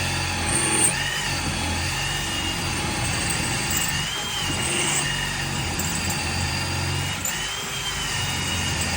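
A small motor running steadily, a low hum with a high whine that wavers slightly in pitch.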